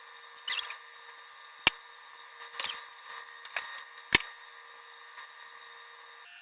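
Close-miked eating of instant noodles: a few short crackly bursts of mouth noise and two sharp clicks, one near the middle and one a little later.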